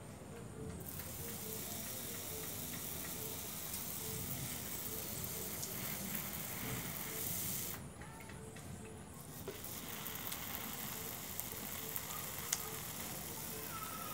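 Hand sprayer misting water in a fine, rain-like spray: a steady hiss that stops for about a second and a half near the middle, then resumes.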